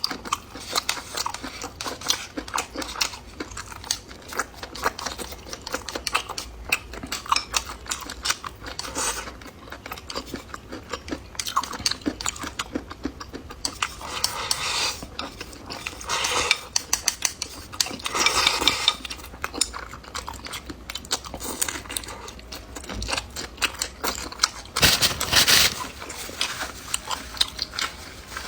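Close-miked eating: chewing and biting with crunching, and utensils clicking against dishes. There are several longer noisy mouth sounds, the loudest near the end.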